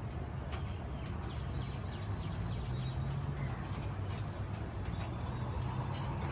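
Cockatiels' beaks and claws making irregular small clicks and taps, with a few faint high chirps about five seconds in, over a steady low hum.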